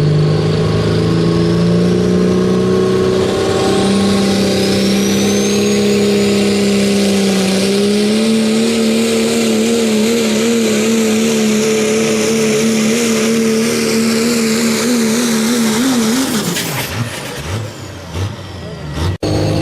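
Turbo-diesel pickup truck engine pulling a sled at full throttle, held at high revs with a turbocharger whistle rising in the first few seconds. The engine note wavers through the middle of the pull, then the engine cuts off sharply about three-quarters of the way in, followed by a few short revs.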